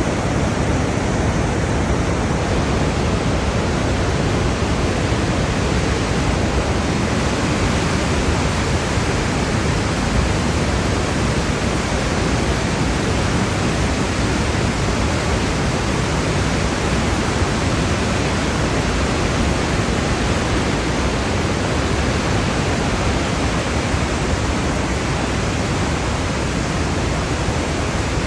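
Rhine Falls, a large river waterfall: water crashing in a loud, steady, unbroken rush.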